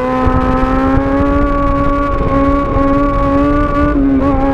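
Sport motorcycle engine running at steady revs while riding, its pitch creeping up slightly, with a brief dip in revs near the end. A low rumble sits underneath.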